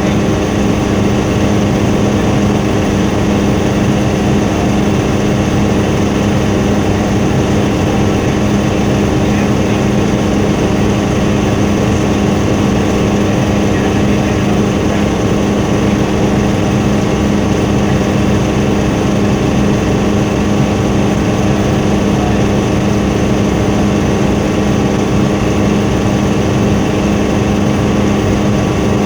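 Helicopter in flight, heard from inside the cabin: a loud, steady drone of engine and rotor with a strong low hum and a few constant higher tones.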